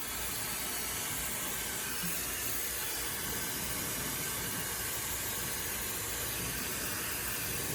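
Ionic hair dryer switched on and blowing at high speed: a steady, even rush of air and fan noise.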